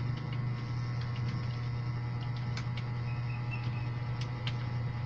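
A few scattered, irregular keyboard key clicks over a steady low hum.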